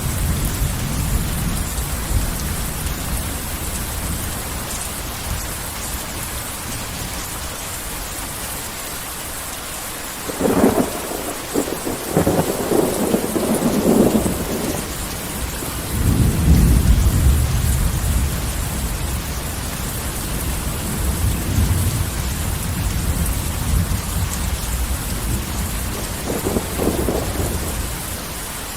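Heavy rain falling steadily, with thunder: a sharp crackling peal about ten seconds in, followed by a deep rolling rumble that swells and slowly dies away, and a smaller crackle near the end.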